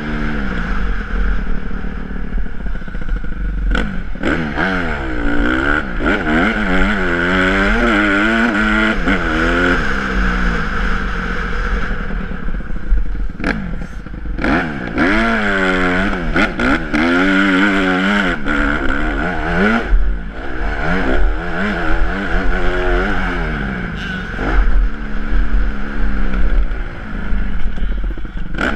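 Honda CRF150R's single-cylinder four-stroke engine revving hard. Its pitch climbs and drops back again and again as the bike accelerates and shifts through the gears around a motocross track. Sharp knocks and clatter from the bike come through now and then.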